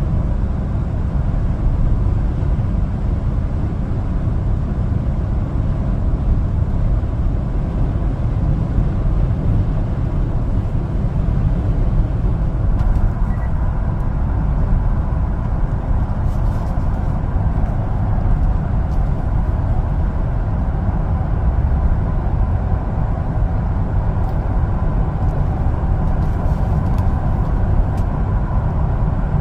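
1-ton LPG cargo truck driving at a steady pace, its engine and road noise a constant low rumble with no changes in speed or load.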